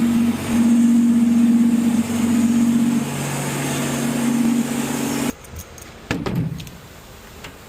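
A motor running with a steady hum, a lower tone joining it about three seconds in. It cuts off abruptly about five seconds in, leaving a quieter stretch with a brief falling tone and a few faint knocks.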